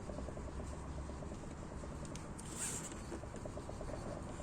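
Rapid light ticking knocks from the front wheel and suspension strut of a jacked-up Citroën C4 Grand Picasso as the wheel is rocked back and forth by hand. The owner is hunting this knock and wonders whether it comes from a loose hub nut or worn wheel bearings. A brief hiss comes about halfway through.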